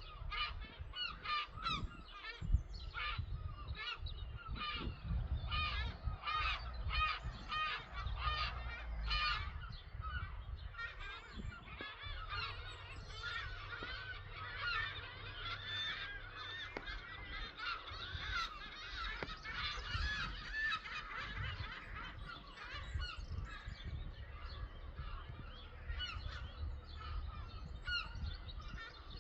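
A flock of birds calling, many short calls overlapping, thickest in the middle of the stretch, over a steady low rumble.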